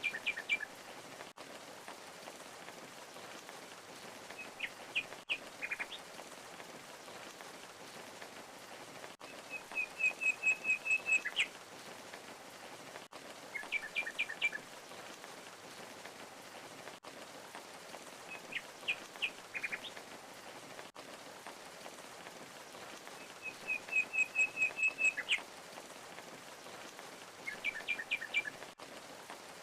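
Steady rush of a waterfall under a small songbird singing short chirping phrases every four to five seconds, two of them rapid trills of about eight even notes.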